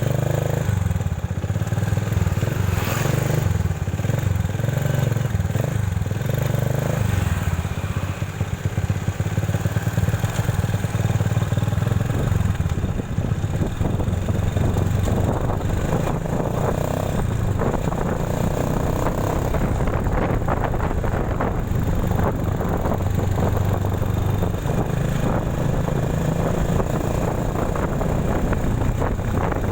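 Motorcycle ridden along a road, its engine running steadily throughout.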